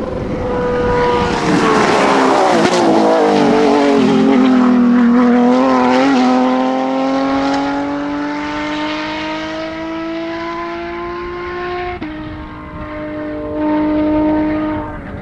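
Porsche 911 GT3 rally car's flat-six engine at full noise. Its pitch falls as the car passes close by, then climbs steadily as it pulls away under acceleration, with a sharp drop at a gear change about twelve seconds in and a short rise after it.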